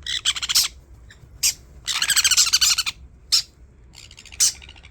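Sun conure squawking: short, harsh, high-pitched screeches, with a longer raspy, stuttering call about two seconds in.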